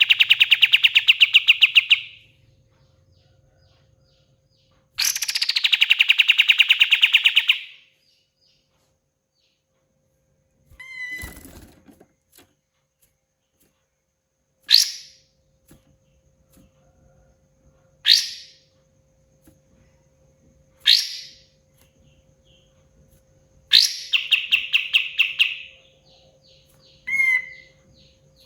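Kapas tembak singing: three long, very fast trills of rapidly repeated notes, near the start, about five seconds in and near the end, with single sharp whistled calls sweeping down in pitch in the gaps between them. A brief low rumble about eleven seconds in and a faint steady hum lie underneath.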